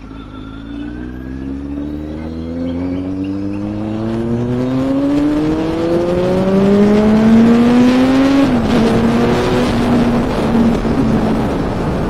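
Kawasaki Z900 inline-four engine and exhaust under hard acceleration, the pitch climbing smoothly for about eight seconds. It then drops at an upshift and holds nearly steady in the next gear, with road and wind rush growing as speed builds.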